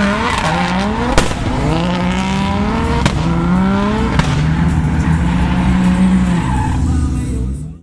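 Mercedes-Benz V8 drift car's engine revving in repeated rising pulls while its tyres squeal through a slide, with sharp cracks about a second, three seconds and four seconds in.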